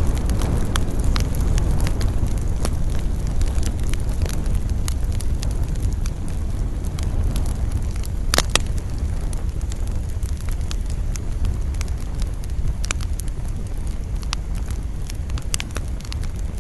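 Campfire crackling, with many sharp pops and one louder pop about halfway through, over a steady low rumble of wind.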